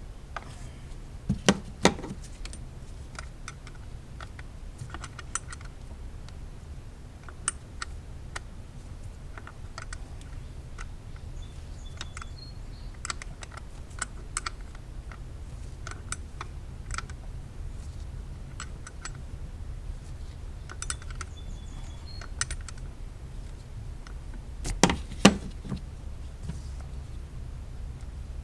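Irregular metallic clicks and clinks of hand tools working the bolts of a coil pack deep in an engine bay, with a couple of louder clanks at about two seconds in and again near the end.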